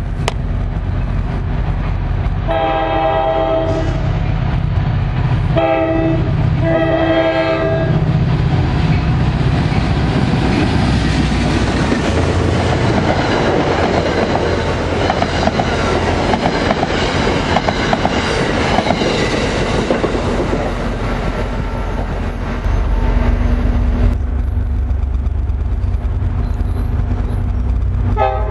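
NJ Transit diesel commuter train (GP40PH-2B 4210) sounding its horn three times, one longer blast then two shorter ones. It then passes at speed with a loud rumble and the clickety-clack of wheels over the rails. About three-quarters of the way through, a deeper, louder drone comes up.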